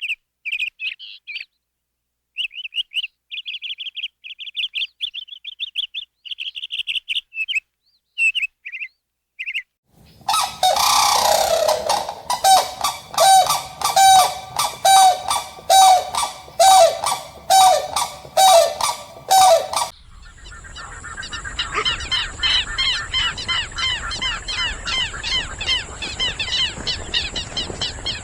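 Bird calls in three stretches: short high chirps at first; then, about ten seconds in, a run of loud calls repeated about once a second; then, near twenty seconds, dense rapid chirping over a steady high hiss.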